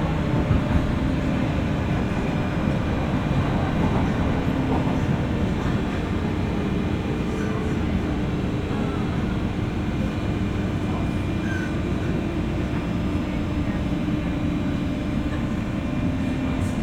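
Interior noise of a JR West 201-series electric train's motor car, heard from above its armature-chopper equipment: a steady rumble with a low hum running through it.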